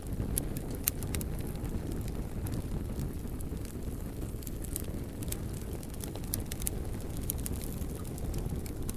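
Wood fire crackling: irregular sharp pops and snaps over a steady low rumble, with one louder pop about a second in.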